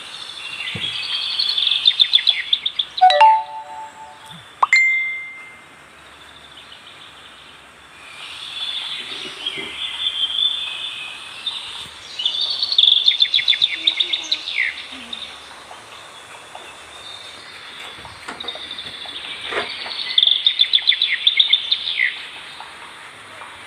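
Forest birds singing: a fast, trilling high song phrase comes three times, some seconds apart, with a few shorter calls in between, over a faint steady background hiss.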